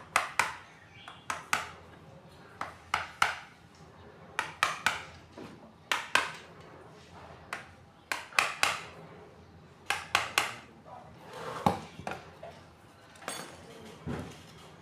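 Irregular sharp metal taps and clinks, one or two a second, with a couple of duller knocks near the end: a part being knocked into place in an electric water pump during a seal and bearing replacement.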